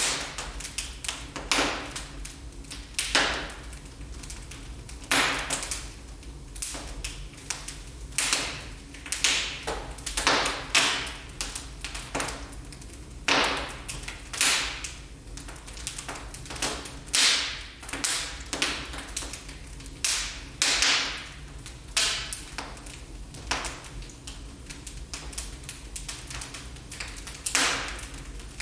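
Wood fire crackling in a fireplace: irregular sharp pops and snaps, a few every second and some much louder than others, over a steady low rumble.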